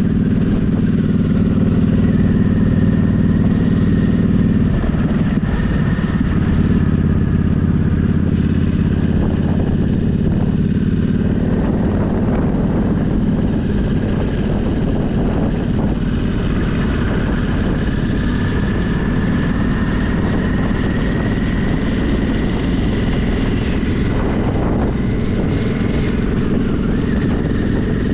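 Motorcycle engine running steadily while riding, heard with road and wind noise. The engine note breaks off briefly about five seconds in and then resumes.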